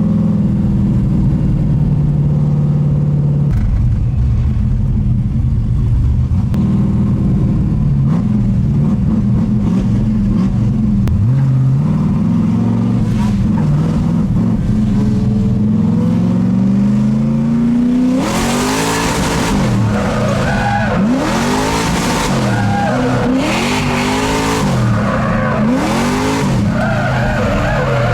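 LS3 V8 in a swapped Mazda Miata pulling hard, its pitch climbing through the gears. About eighteen seconds in the car breaks into a drift: tyres squeal while the engine pitch swings quickly up and down with the throttle.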